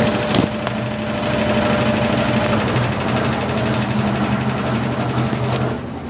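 Consul Facilite 10 kg top-loading washing machine in its wash stage, the motor driving a Brastemp BWL09 agitator: a steady mechanical hum with a few clicks near the start. A sharp click comes near the end, and then the hum drops.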